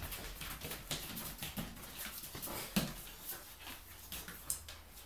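A chow chow and a Samoyed play-fighting, with dense, irregular scuffling and short dog noises. One louder, low-pitched dog sound comes about three seconds in.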